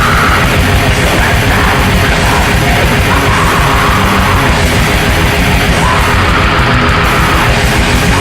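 Black metal recording, loud and relentless: distorted guitars over fast, dense drumming.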